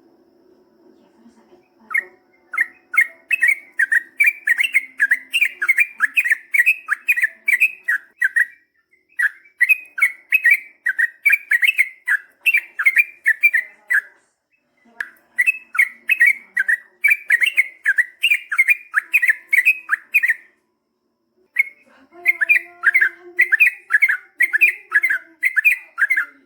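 Yellow-vented bulbul (trucukan) singing long, fast runs of quick repeated notes, in four long phrases with short pauses between them. This is the extended rapid 'ropel panjang' song of a bird in full song.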